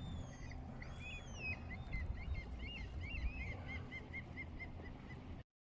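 Birds calling outdoors: a quick series of short, arched chirps, about four or five a second, with a few higher whistles that glide downward, over a low rumble of wind.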